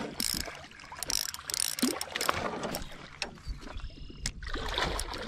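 Spinning reel cranked close to the microphone, its gears running as a hooked fish is reeled in.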